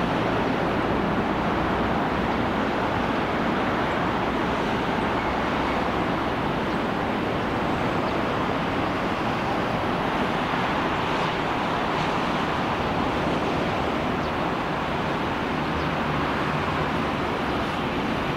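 Steady rumble and rush of an electric train running through the station, with no clear motor whine.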